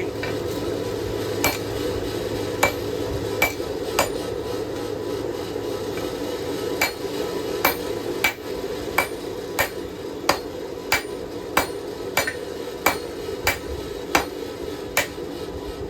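Hand hammer striking hot steel on an anvil in flat blows, drawing out a knife blank. A few scattered strikes come first, then after a short pause a steady run of about three blows every two seconds. A steady rushing noise from the forge runs underneath.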